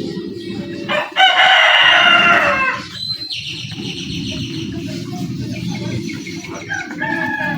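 A loud pitched animal call, about a second and a half long and falling slightly, over a steady low background.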